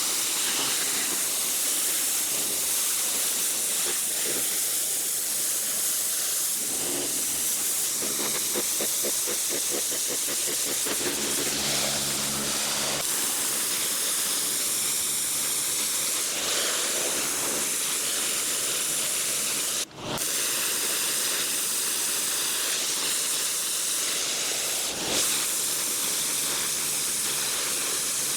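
Gas-engine pressure washer spraying water in a steady, loud hiss, with the engine's hum underneath; the spray breaks off for a moment about twenty seconds in.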